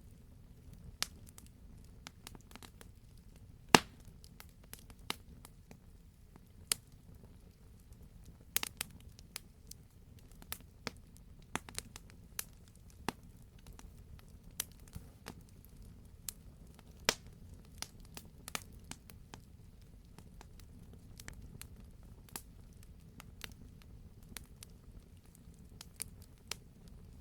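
Wood fire in a fireplace crackling, with irregular sharp pops, one loud pop about four seconds in, over a steady low rumble of the flames.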